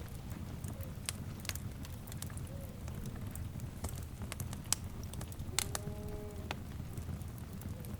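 Wood fire crackling with irregular sharp pops over a steady low rumble of flames. A faint drawn-out animal call of about a second comes in a little past the middle.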